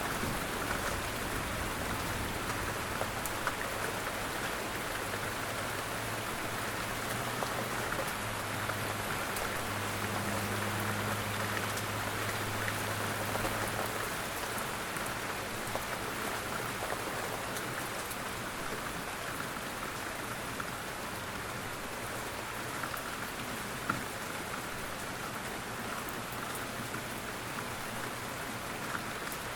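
Steady rain falling, a dense, even patter of drops. A low hum sits underneath for the first half, then stops, and one sharp tick stands out about three-quarters of the way through.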